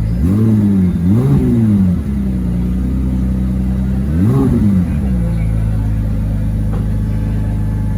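A car engine idling steadily, blipped up in revs three times: twice in quick succession near the start, and once more about four seconds in, each time falling straight back to idle.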